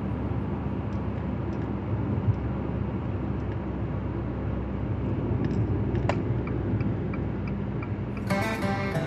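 Car on the move: steady low engine and road rumble, with a short high chirp about six seconds in. Guitar music comes in near the end.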